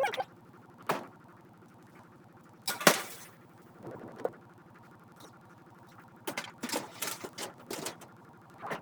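Ice cream scoop knocking and scraping against a mixing bowl and baking pan while cookie dough is scooped out and dropped onto the pan. A few separate knocks, the loudest about three seconds in, then a quick run of clicks and taps near the end.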